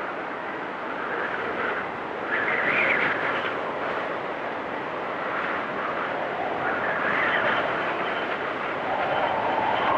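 Storm wind whistling and howling in gusts, a steady rush with a pitch that rises and falls as each gust swells and fades every few seconds.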